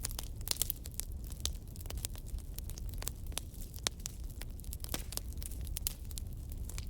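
Logs burning in a fireplace, crackling with frequent irregular sharp pops over a steady low rumble of the flames.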